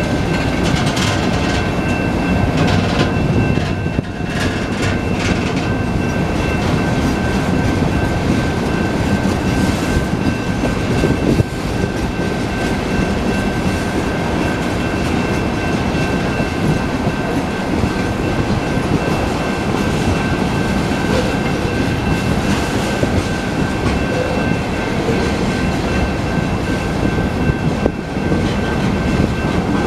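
BNSF freight train's cars rolling past a grade crossing, steel wheels clacking over the rail joints in a loud, steady rumble, with a thin, steady high-pitched ring running alongside.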